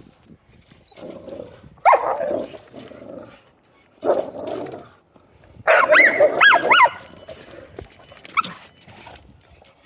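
Dogs barking and growling in short bursts, with a run of high yelps about six seconds in: a scuffle between pack members.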